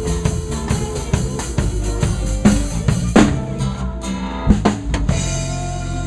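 Live band playing the end of a song with a drum kit driving a steady beat. A few heavy accented drum hits come in the middle, then the band holds a final chord.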